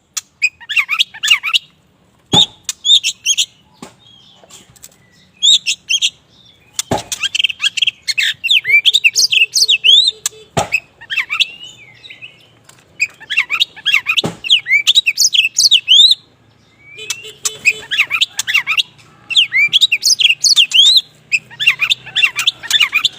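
Black oriental magpie-robin (kacer wulung) singing vigorously, in bursts of rapid, sweeping whistles and chirps that each last a second or few, with short pauses between. Sharp clicks cut in about four times.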